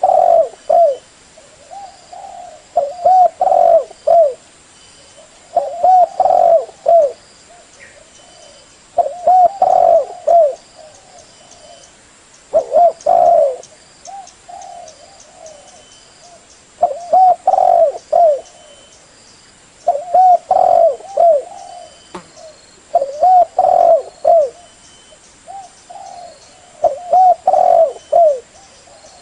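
Spotted dove (tekukur) cooing: a loud, repeated multi-note coo phrase about every three to four seconds. It is a recorded call of the kind played to lure doves for hunting or trapping.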